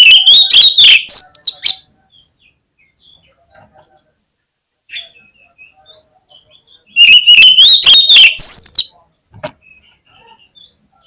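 Oriental magpie-robin (kacer) song: two loud bursts of rapid whistled and harsh notes, each under two seconds and about seven seconds apart, with faint chirps between them. A short sharp click follows the second burst.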